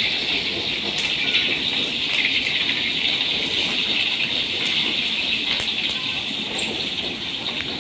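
Chillies and tomato pieces frying in hot oil in a wok: a steady sizzling hiss with scattered crackles.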